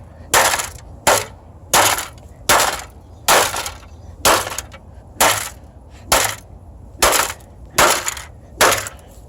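A washing machine's control panel being struck again and again, about eleven blows at a steady pace of a little under one a second, each hit a sharp breaking impact.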